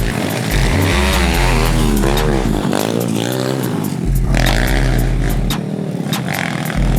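Small single-cylinder pit bike engine revving up and down as the bike is ridden, its pitch rising and falling repeatedly.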